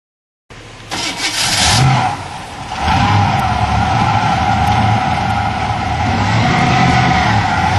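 Supercharged 468 cubic-inch big-block Chevy V8 in a jet boat running. It cuts in with a rough, loud burst about a second in, dips briefly, then settles into a steady running note.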